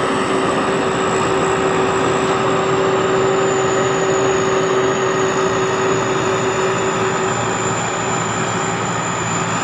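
Sakpatthana SS-300 combine harvester's turbocharged engine running steadily under harvesting load, with a high, sharp turbo whine over the engine and threshing noise.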